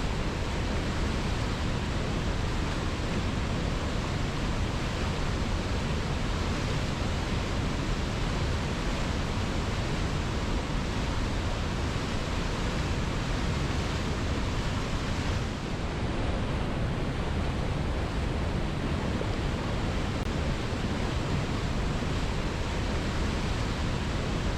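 Waterfall: water falling onto rocks makes a steady, even rushing, with a brief slight dip in level about two-thirds of the way through.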